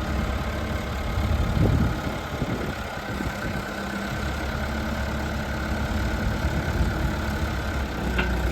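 JCB 214 Series 2 backhoe's diesel engine idling steadily, swelling briefly about a second and a half in.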